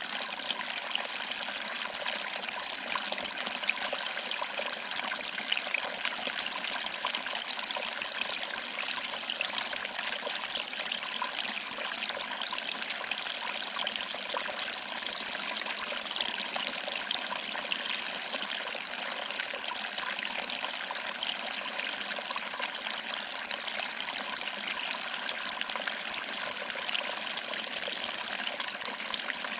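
Small waterfall: water trickling over rocks and splashing into a pool, a steady hiss with no deep rumble.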